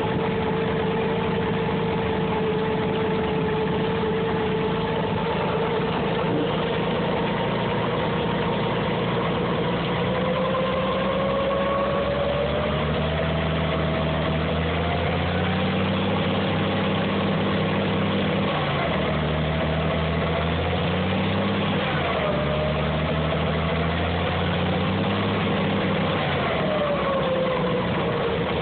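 Farmall 460 tractor's gasoline engine running cold. It picks up speed about a third of the way in, then hunts unevenly up and down, and sags near the end as it starts to die. The owner suspects it is low on gas and not fully warmed up.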